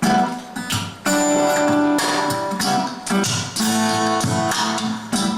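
Guitar strumming chords, starting abruptly with the opening of a song, a brief pause about a second in, then a steady run of chords.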